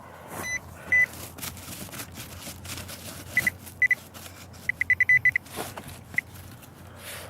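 Garrett Pro Pointer pinpointer beeping as it is probed into the dug hole. First come a few single beeps, then a quick run of about eight near the middle as it closes on the buried coin. Scraping and crackling sounds of digging in soil lie under the beeps.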